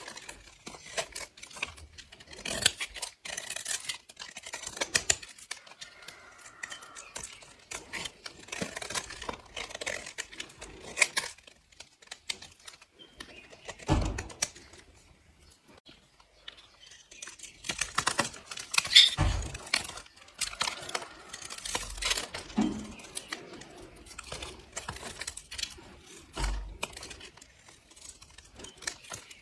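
Knife slicing through dry bars of soap: bursts of crisp crunching and crackling, with a quieter pause midway and a few dull thumps.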